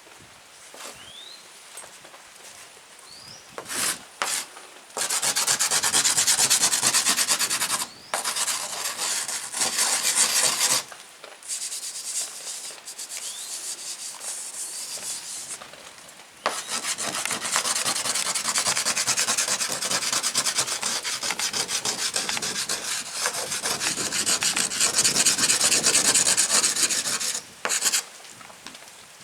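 Rapid, even back-and-forth rubbing strokes on a hard surface, like sanding or scrubbing, in long runs with a few short pauses between them.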